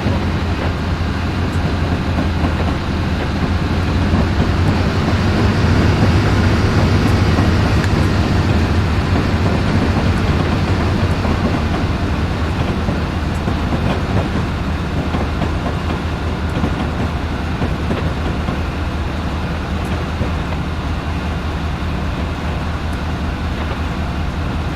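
A train running, a steady low rumble that swells a few seconds in and then slowly eases off.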